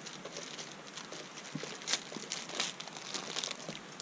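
Light rustling and crackling as pieces of resinous pine tinder are handled, a scatter of small irregular clicks and crinkles.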